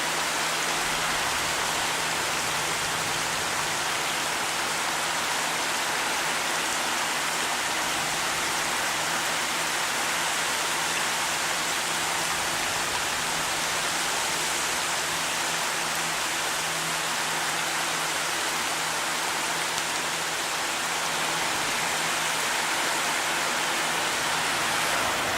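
Heavy rain falling steadily, an even unbroken hiss, with a faint low steady hum underneath.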